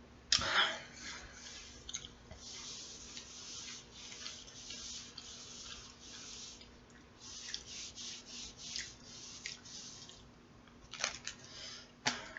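Someone chewing a sub sandwich close to the microphone: irregular soft crackly mouth noises with a few sharper clicks, the loudest just after the start, over a faint steady hum.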